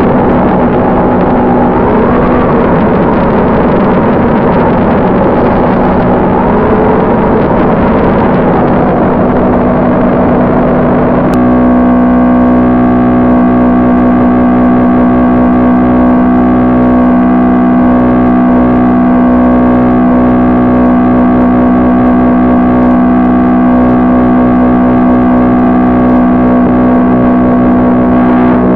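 Onboard audio of an FPV plane: the electric motor and propeller run under heavy wind noise, the motor pitch rising and falling with throttle. About eleven seconds in, the sound cuts abruptly to a steady drone of several held tones.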